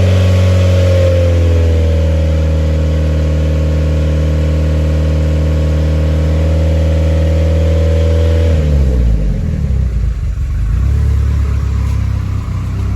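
Freshly built Mitsubishi 4G63 turbocharged inline-four running at raised revs, held steady for about eight seconds, then dropping back to a steady idle.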